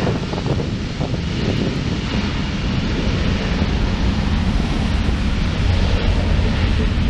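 Wide-body jet airliner's engines, a steady low rumble with a faint high whine.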